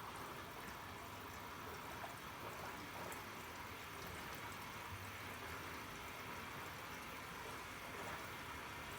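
Arçelik 3650 SJ washing machine taking in water for the main wash: a steady hiss of water running into the drum.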